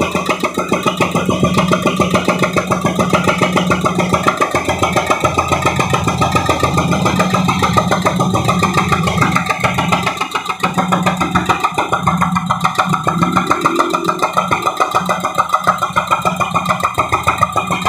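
Heavy construction machine's diesel engine running steadily, with an even rapid pulsing of about five beats a second.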